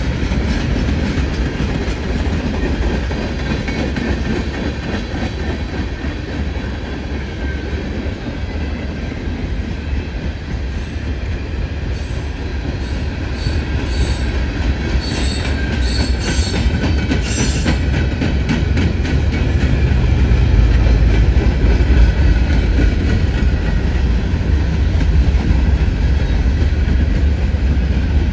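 Freight train cars rolling past: a steady rumble and clatter of steel wheels on the rails. Midway through come several brief high-pitched wheel squeals, and the low rumble grows heavier and louder in the later part.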